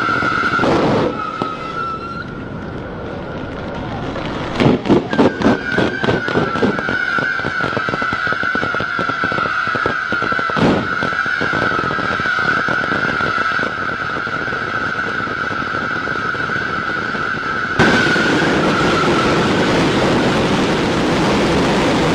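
Fireworks: a quick run of bangs, about four a second, from about five to seven seconds in, then one loud bang near the middle. From about eighteen seconds in comes a sudden, steady rushing hiss as a waterfall cascade of sparks fires. A steady high tone sounds through most of it.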